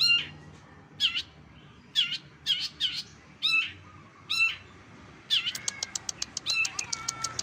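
A songbird calling: sharp, downward-sliding calls about once a second, then from about five seconds in a rapid run of thin high ticks.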